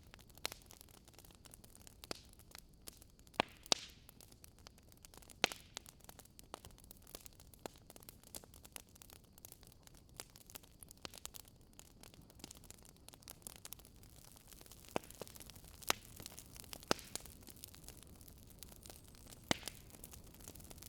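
Wood fire crackling in a fireplace: irregular sharp pops and snaps of burning logs over a low steady hiss, a few pops louder than the rest.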